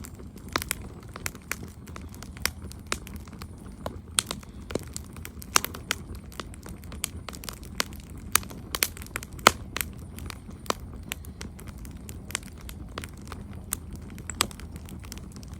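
Campfire crackling: irregular sharp pops and snaps, several a second, over a steady low rumble of the flames, with one louder pop about nine and a half seconds in.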